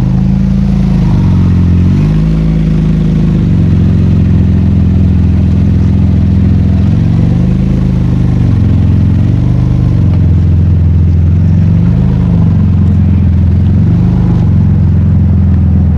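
Car engine running loudly at low revs close to the microphone, its pitch dipping and rising slightly several times.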